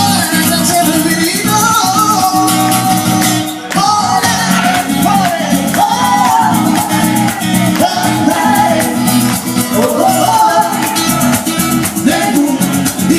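Live Latin music: a singer over guitar and a steady shaker rhythm, with a short break in the music about three and a half seconds in.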